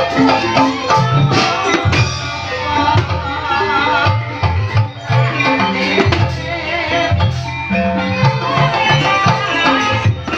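Javanese gamelan music accompanying an ebeg horse dance: kendang hand drums beat under ringing metal keyed instruments, with a wavering melody line above.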